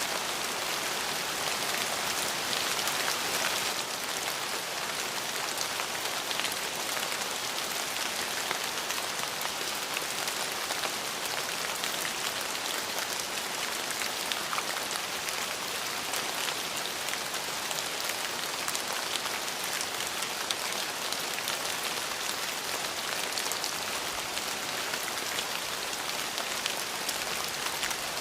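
Steady rain falling and pattering on a surface, a dense even hiss scattered with individual drop ticks.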